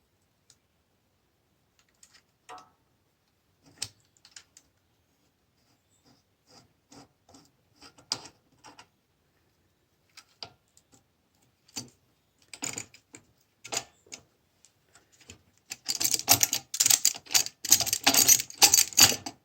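Metal tools and parts clicking and rattling as a tensioned belt-and-brake assembly on a Honda is worked apart: scattered single clicks at first, then a fast, loud run of clicking and rattling for the last few seconds.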